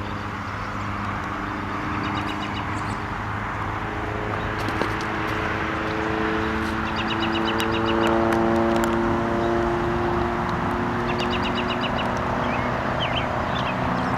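Steady traffic noise from a nearby highway, with a vehicle passing and swelling toward the middle, under scattered singing of Brood X periodical cicadas. Birds give several short rapid trills and, near the end, a few chirps.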